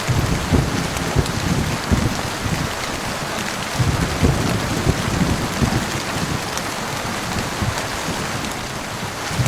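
Heavy rain falling steadily, with low thunder rumbling that swells at the start and again about four seconds in.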